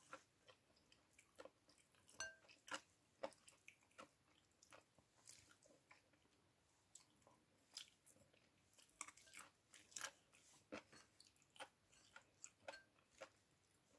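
Faint chewing and mouth smacks of a person eating rice and chicken by hand, scattered soft clicks at an uneven pace, with fingers now and then working the rice on a paper plate.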